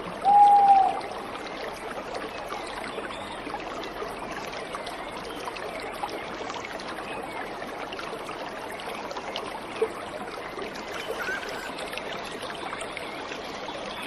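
Steady rushing of a waterfall's flowing water. A bird gives one loud clear whistled call about half a second in, with a few faint short chirps later on.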